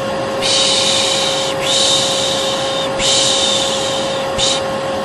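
A vacuum cleaner runs with a steady hum. Over it, a soothing 'shhh' shush repeats about four times: three long ones of about a second each and a short one near the end.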